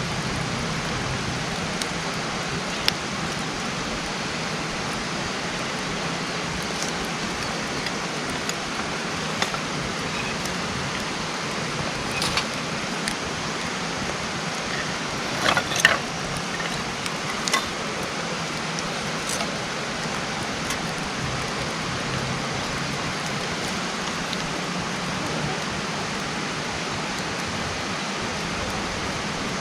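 Wood campfire burning: a steady hiss, with scattered sharp crackles and pops from the burning wood, the loudest few about halfway through.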